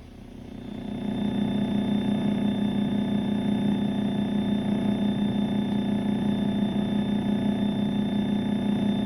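Slingsby T67 Firefly's piston engine and propeller droning steadily in the climb, heard from inside the cockpit. It swells in over the first second, then holds an even pitch.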